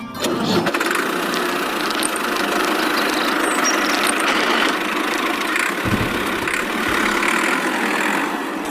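A small motor running steadily, starting abruptly and cutting off near the end.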